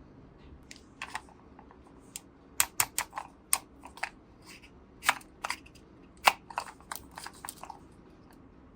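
Small toy pieces being handled, giving irregular sharp clicks and taps, some in quick runs, starting about a second in and stopping shortly before the end.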